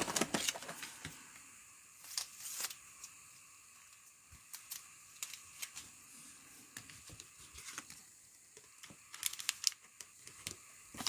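Faint, scattered rustling and clicking as trading card packs and cards are handled, with a few louder rustles about two seconds in and near the end.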